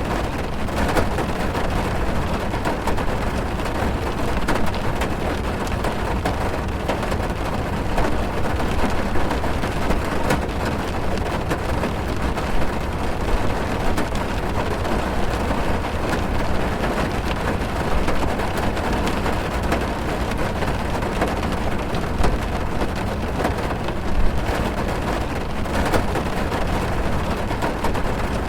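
Heavy rain drumming on a car's roof and windows, heard from inside the car as a steady dense patter with a deep rumble underneath and scattered louder drops.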